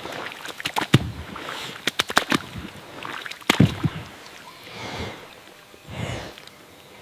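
Water sloshing and splashing, with a run of sharp slaps and clicks and a few softer swells.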